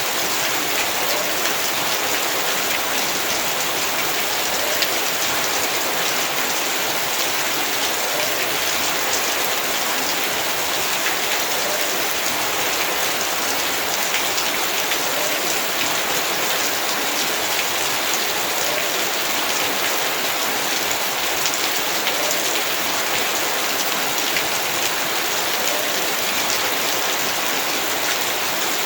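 Heavy rain falling steadily on surfaces, a constant hiss of many individual drops hitting.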